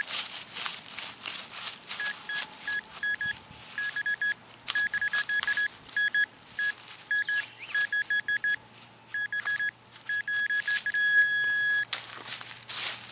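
Metal detector beeping on a buried target, a high tone in short beeps and quick chirping runs, with one longer held tone near the end, over the scraping and crunching of digging in the ground. The signal is a 26 reading that turns out to be a nickel.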